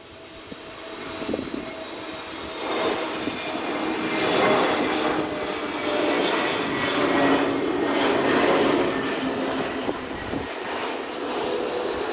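Jet engines of an Airbus A320neo passing: a rushing roar with a steady whine that swells over the first few seconds, peaks midway and eases a little toward the end.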